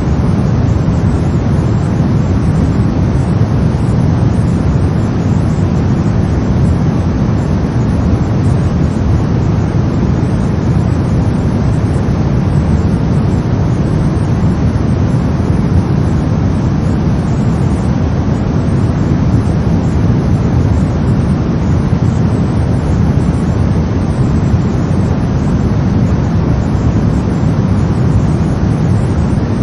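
Brown noise: a steady, deep, rumbling hiss, strongest in the bass and falling off toward the treble, with no change over time.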